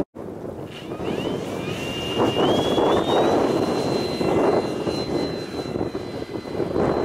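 E-flite Draco RC model plane's electric motor and propeller whining up in pitch for about two seconds, then holding steady at high throttle, with strong gusty wind buffeting the microphone.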